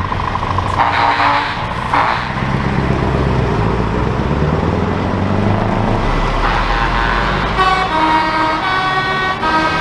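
Truck air horns honking over the low drone of passing truck engines: a short blast about a second in, a brief toot at two seconds, then from about six and a half seconds several horns of different pitch sounding together.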